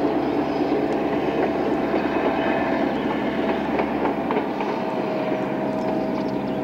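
Local passenger train running along the line, hidden by trees: a steady running noise with a held whining tone and light wheel clicks.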